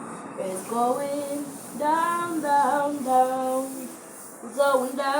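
A single voice singing a melody in held, drawn-out notes, several phrases that rise and fall.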